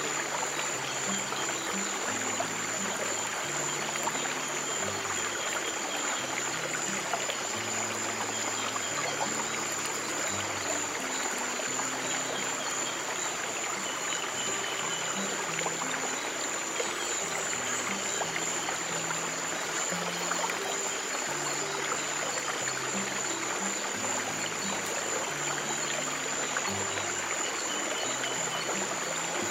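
Flowing stream water running steadily under slow, soft piano notes held low and changing every second or two, with a thin steady high tone above.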